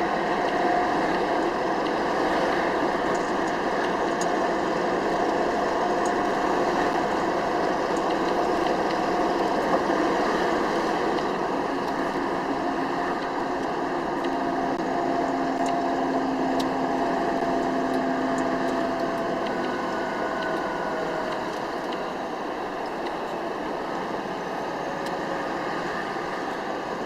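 Scania R500 V8 truck running on the road, a steady drone with faint held tones that drift slowly in pitch, easing slightly quieter over the second half.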